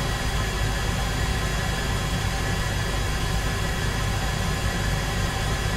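Steady drone of aircraft engines, a continuous rumbling noise with a few faint steady whines above it.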